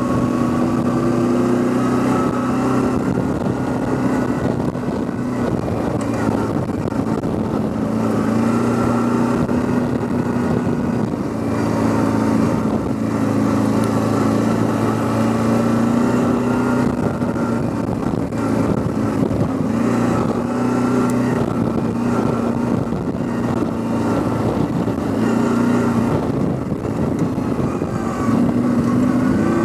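Quad bike (ATV) engine running steadily while riding, its pitch rising and falling a little with the throttle.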